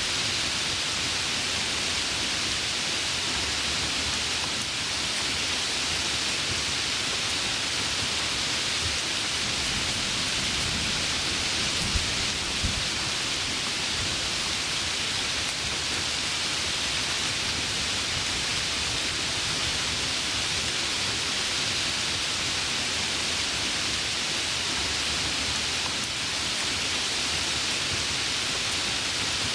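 Heavy rain falling steadily, an even hiss. Two brief sharp knocks about twelve seconds in, less than a second apart.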